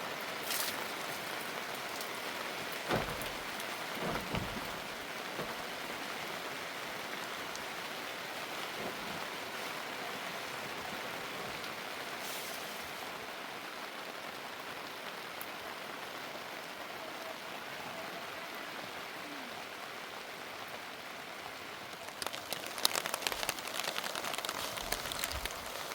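Steady heavy rain falling. A couple of knocks come a few seconds in, and a burst of sharp clattering and knocks comes near the end.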